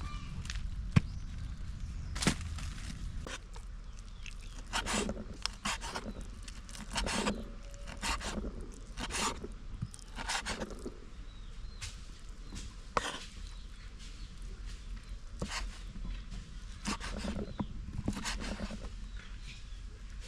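An irregular series of short thuds and scrapes, spaced from about half a second to a couple of seconds apart.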